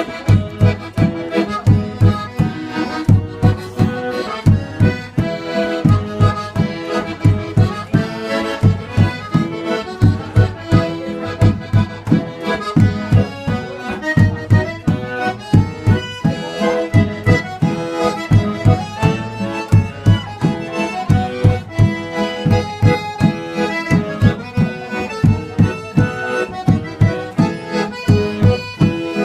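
Accordion (sanfona) music with a steady drum beat, in the style of northeastern Brazilian festa junina music.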